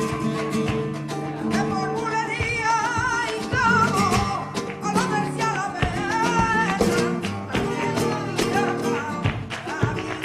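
Flamenco music: a singer's wavering, ornamented voice enters about two seconds in over guitar chords and sharp rhythmic strokes.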